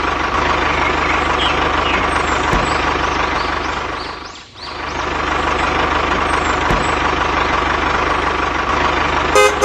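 Mini tractor engine running steadily with a rapid knocking beat, dipping briefly about halfway through. A short horn toot sounds at the very end.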